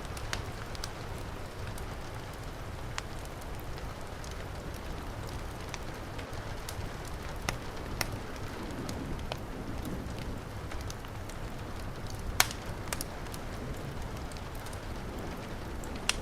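Heavy rain falling steadily, mixed with a wood fire crackling: scattered sharp pops through a constant hiss and low rumble, the loudest pop about twelve seconds in.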